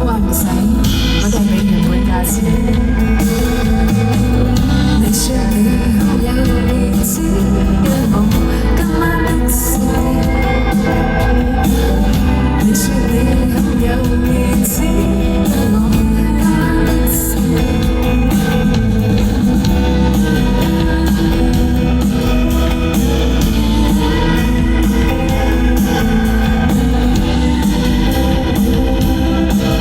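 Live band music: an indie pop band playing with guitar and drums, with singing at times; sharp cymbal-like strikes in the first half.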